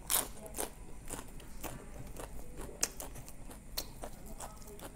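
A person chewing a mouthful of rice and steamed egg wrapped in raw cabbage leaf, close to the microphone: a string of irregular crisp crunches and mouth clicks, the strongest just after the start.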